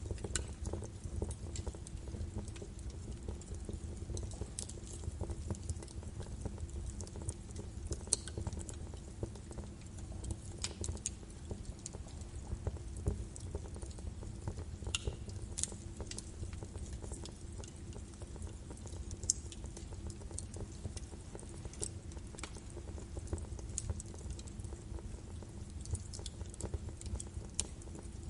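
Birch wood fire burning in a fireplace: a steady low rumble of the flames with irregular crackles and sharp pops scattered throughout.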